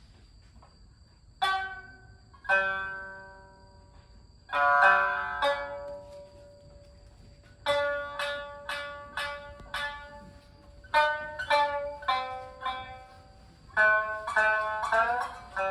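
Yamato-gaku instrumental opening on plucked Japanese string instruments: a few single, spaced notes, then phrases of notes that grow denser and quicker toward the end.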